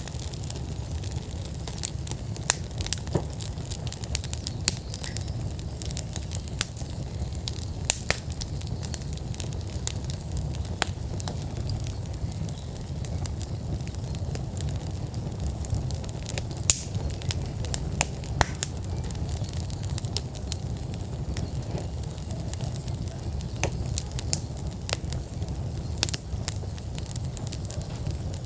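Wood fire in an outdoor fire pit burning at full burn: steady crackling with frequent sharp pops over a low, constant rush of flame.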